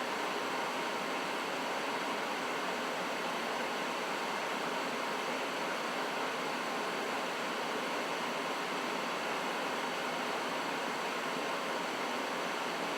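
Trane XB80 gas furnace running steadily mid-cycle: an even rush of air from the blower and burners, with a faint steady tone underneath.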